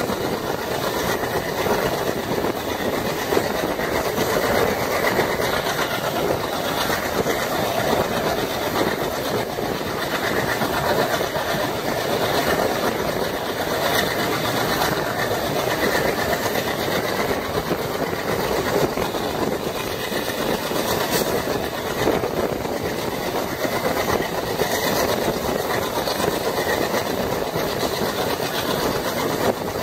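Train hauled by twin WDM3A diesel locomotives running on the rails: a steady rumble with the wheels clicking now and then over rail joints.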